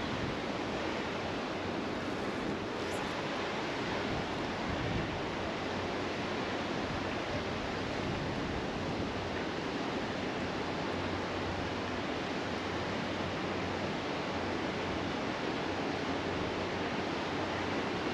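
Steady rushing outdoor background noise, even throughout with no distinct events.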